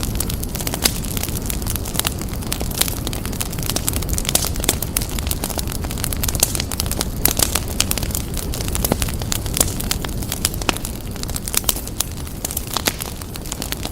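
Wood fire crackling and popping steadily over a low rumble of flames, with sharp snaps coming every fraction of a second.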